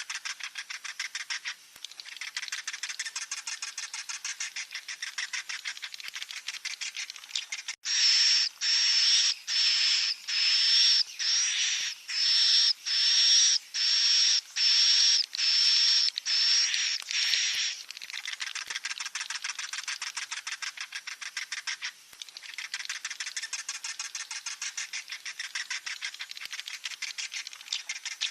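Swiftlet chicks calling: a fast, dense, buzzy chatter of rapid ticks, broken after about eight seconds by some ten seconds of louder separate high-pitched calls, roughly one and a half a second, each holding a steady whistle-like note, before the fast chatter returns.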